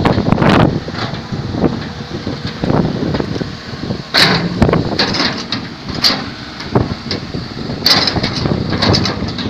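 Excavator at work: engine running under irregular knocks and scraping noises.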